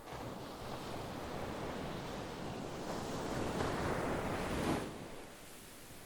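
Sea wave breaking and washing up the shore: a rush of surf that builds for about four seconds to its loudest, then falls away about five seconds in.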